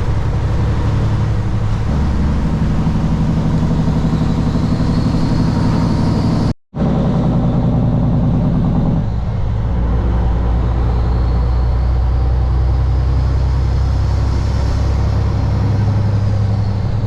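Kenworth W900 semi-truck's diesel engine pulling a loaded trailer uphill. Its note changes at about two and again at nine seconds in. The sound breaks off for a split second near the middle.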